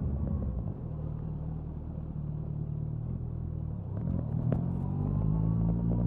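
Suzuki Hayabusa's inline-four exhaust while riding. The engine note drops off as the throttle closes just under a second in and runs lower for a few seconds. From about four seconds in the revs climb again as it pulls.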